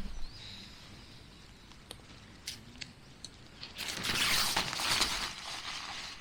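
A few light clicks and taps, then about two seconds of crinkling, rustling noise.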